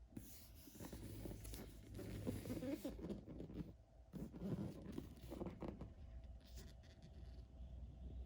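Irregular rustling and scraping handling noise, in two main stretches with a short lull about four seconds in.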